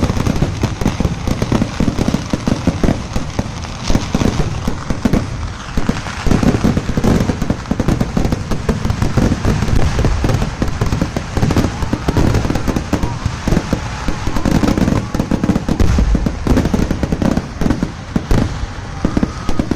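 Festival firework display: a dense, unbroken barrage of firecracker explosions, many bangs overlapping with no pause.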